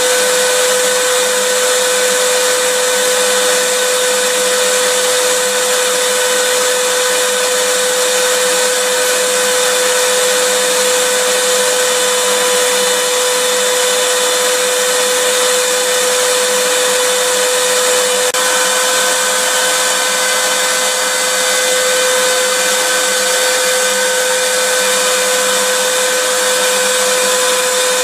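Vacuum cleaner running continuously: a steady motor whine over an even rushing hiss, with a slight shift in the whine about two-thirds of the way through.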